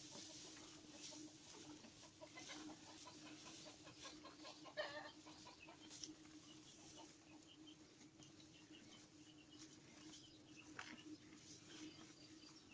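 Faint chickens clucking over a low steady hum, with one slightly louder cluck about five seconds in.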